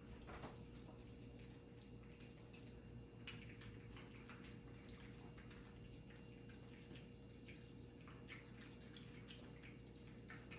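Cats eating: faint, irregular wet smacking and chewing clicks, many small ticks a second, over a steady low hum.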